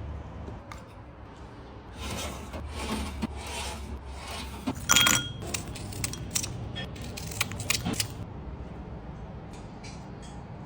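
Rubbing and scraping handling noises with scattered light clicks and clatters, the loudest clatter about five seconds in.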